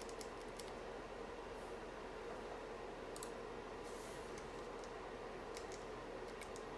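Scattered light clicks from mechanical keyboard parts being handled, in small irregular clusters, over a faint steady hum.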